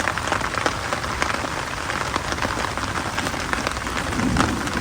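Heavy rain falling steadily, with many individual drops striking sharply through it.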